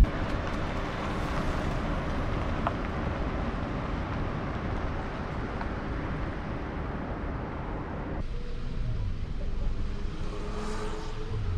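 Steady car driving noise: engine and tyre/road noise with no music. The sound changes abruptly about eight seconds in, with a cut.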